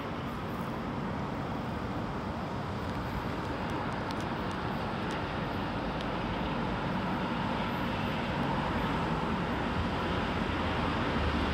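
Steady rumble of a Long Island Rail Road train running along the line, growing slowly louder toward the end.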